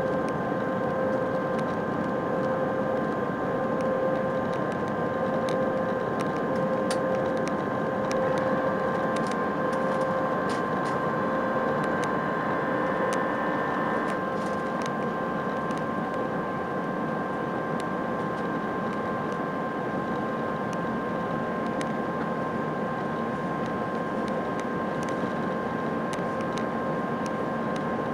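Cabin noise inside an Airbus A319-131 with IAE V2500 engines running under power: a steady rush of engine and airflow noise with several steady whining tones, one of which pulses, and a higher tone that drops out about halfway through. Faint light clicks of cabin rattles come and go.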